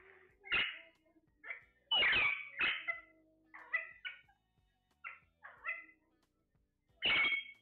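Parrot calling: a series of short, sharp squawks, often in pairs, with the loudest about two seconds in and again near the end.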